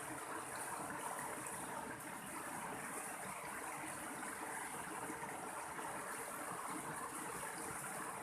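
Mountain stream of water rushing and splashing steadily.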